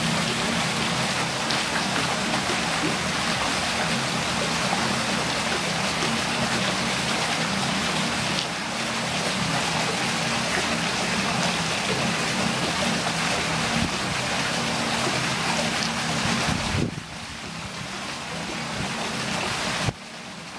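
Steady rush of running water with a low hum underneath. It drops suddenly to a quieter level about 17 seconds in, and again just before the end.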